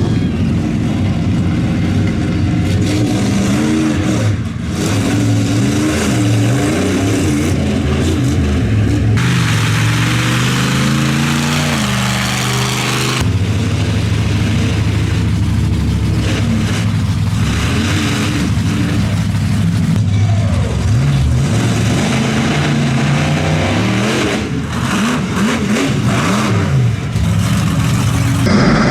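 Monster truck engine revving up and down repeatedly under heavy throttle, with a stretch of loud rushing noise for a few seconds in the middle.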